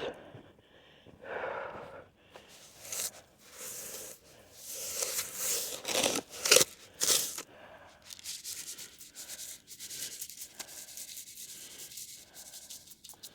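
Footsteps trudging through deep snow: irregular crunching and swishing, the loudest steps a few seconds in, then softer, steadier scraping.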